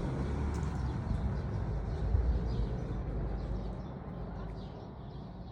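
A low rumbling noise that slowly fades away, with faint bird chirps coming in over the second half.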